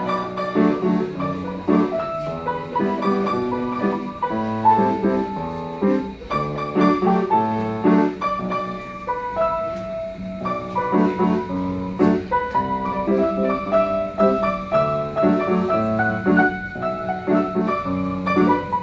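Piano music: a piece played with repeated chords and melody notes in a steady rhythm.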